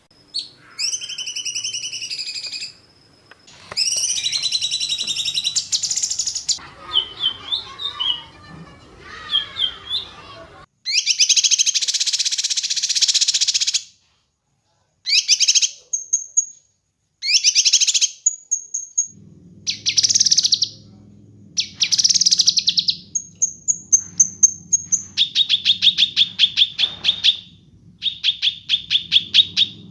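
A songbird singing a series of short, varied phrases: fast trills, high whistled notes and, near the end, rapid runs of sharp repeated notes, the kind of fast burst song that bird keepers call 'tembakan'. The song stops dead for about a second midway.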